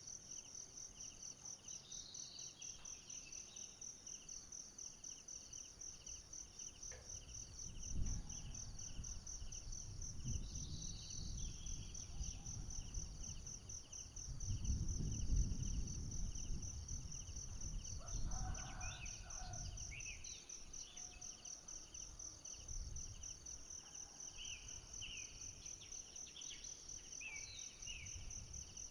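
Forest insects trilling steadily: a fast, high pulsing trill with a second, slower pulsing trill lower in pitch. Short high chirps come in during the second half, and a low rumble swells about eight seconds in and again around fifteen seconds.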